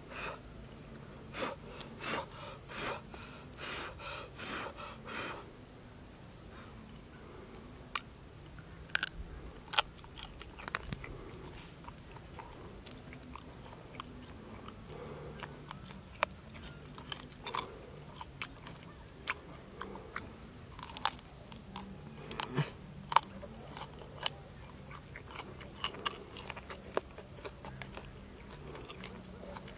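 A person crunching and chewing raw insects, with sharp crisp clicks and crackles as the hard bodies and legs are broken apart by hand. A quick run of crunches over the first few seconds gives way to scattered clicks.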